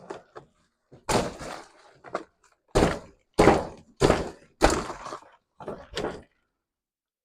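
A series of heavy thuds, about eight, most of them roughly half a second apart in the middle of the run, each with a brief rough tail.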